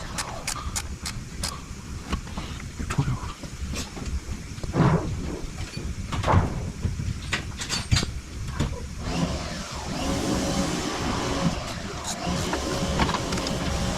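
Repair work on an engine: scattered clicks and knocks of tools on metal, with two short whirring sounds about five and six seconds in, over a steady low hum.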